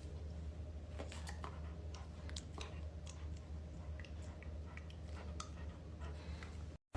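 Faint, irregular small clicks and crunches over a steady low hum, cutting off just before the end.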